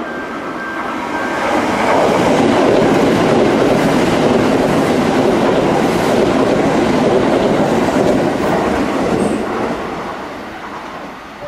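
A Kintetsu electric commuter train passing a station platform at speed without stopping. The noise of its wheels on the rails builds over the first two seconds, stays loud, and fades after about eight seconds.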